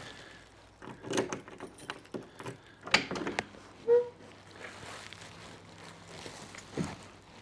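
Scattered knocks and clicks of handling and movement, the loudest about three seconds in, with a short squeak about four seconds in.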